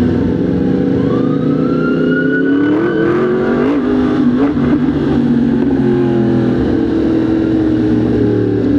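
Motorcycle engine running in traffic, its revs climbing and dipping a few seconds in, then holding steady.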